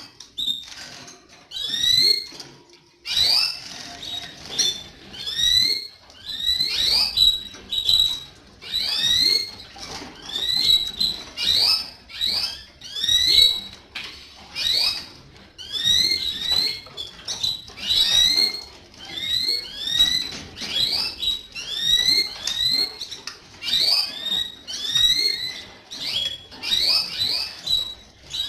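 Canaries singing: short high whistled notes that rise and fall, repeated in quick bursts about once a second.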